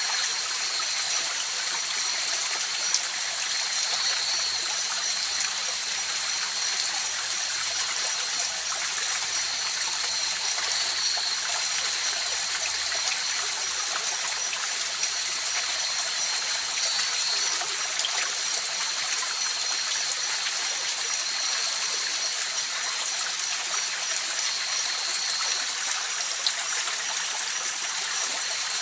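Mountain river water rushing and trickling steadily, an even hiss with no breaks. Two faint, thin, steady high-pitched tones sit on top of it.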